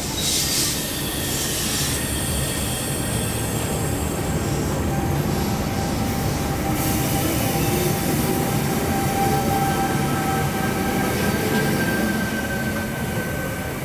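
V-set electric double-deck interurban train pulling out of the platform close by: a steady, loud rumble of wheels and running gear with a steady whine over it that fades near the end.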